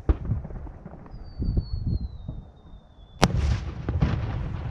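Aerial firework shell: a sharp launch bang right at the start, then a thin whistle falling slowly in pitch as the shell climbs. About three seconds in, the shell bursts with a loud bang that echoes away, all over a low rumbling.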